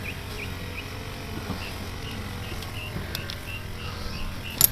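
Outdoor ambience: an insect chirping steadily in a regular repeating rhythm over a low, steady background hum, with one sharp click near the end.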